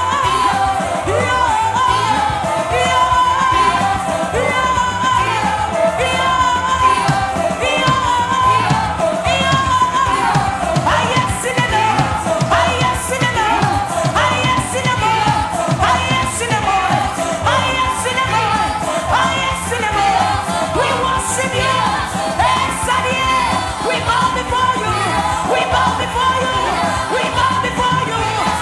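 Live worship music: a voice singing over a steady instrumental backing.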